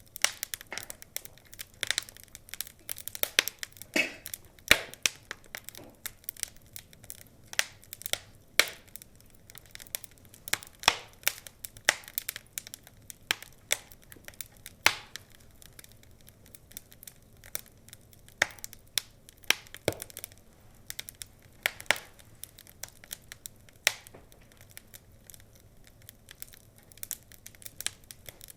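Wood fire crackling, with irregular sharp pops and snaps, several a second, and now and then a louder crack.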